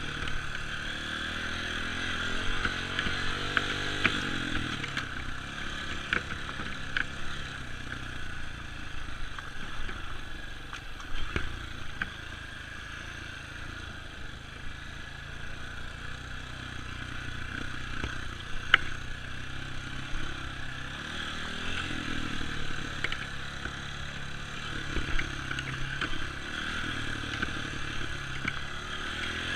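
Dirt bike engine running along a trail, its pitch rising and falling with the throttle, with scattered knocks and rattles throughout.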